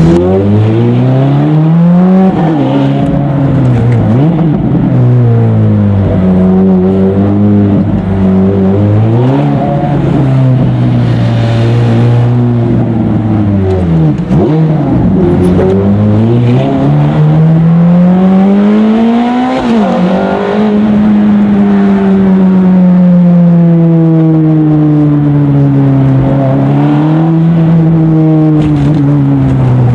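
Ferrari F430's V8 engine through a full Capristo exhaust, heard from inside the car while driving. The engine note repeatedly climbs in pitch and drops sharply, as the car accelerates and eases off, with a long steady, slowly falling drone past the middle.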